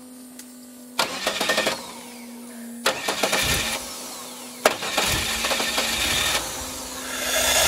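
A long-dormant F-body donor engine being cranked on its starter after years of sitting: three short cranks about two seconds apart over a steady hum, then a longer crank from about five seconds in that swells louder near the end as it tries to fire.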